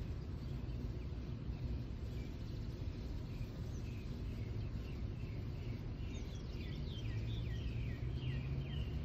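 A songbird singing a run of quick, falling chirps, starting about three and a half seconds in and coming thicker and faster near the end, over a steady low outdoor rumble.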